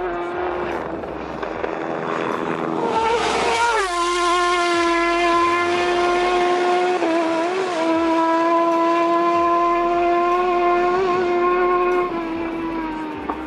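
Racing motorcycle engine running at high revs, holding a steady high pitch. The pitch drops sharply about three and a half seconds in, wavers briefly around seven seconds, and the sound falls away near the end.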